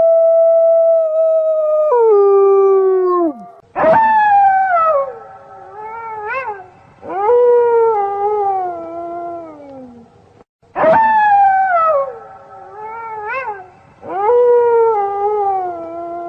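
A pack of wolves howling. One long, steady howl drops in pitch and fades about three and a half seconds in. Then waves of overlapping howls from several animals follow, each starting high and sliding down over a few seconds.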